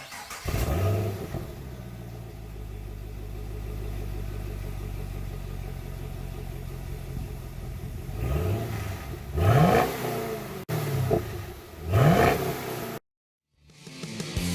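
2010 Camaro SS's L99 6.2-litre V8 on its stock exhaust, starting with a quick flare and then idling steadily. It is revved about three times toward the end, the last two being the strongest, before the sound cuts off.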